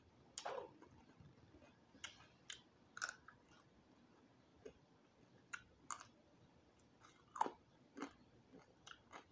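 Quiet, close-up chewing and biting of crispy roasted quail, with scattered irregular crunches and mouth clicks.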